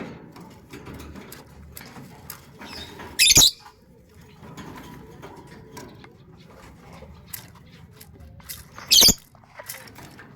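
Pet puter dove moving about with light scratching and tapping sounds, and two brief loud wing flutters, one about three seconds in and one near the end.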